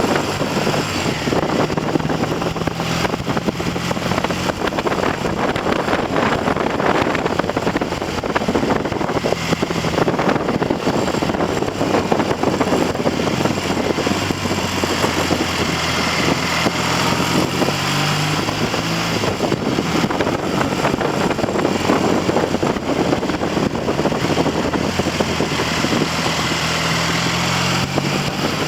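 Heavy wind noise on the microphone of a moving Triumph TR6 motorcycle, with its 650 cc parallel-twin engine heard beneath. The engine note rises and falls a few times. The engine is being run in on new pistons and rings, at mid-range revs and small throttle openings.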